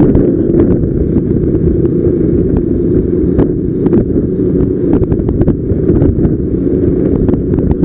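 Loud, steady low rumble of wind buffeting the microphone over vehicle running noise, with scattered light clicks.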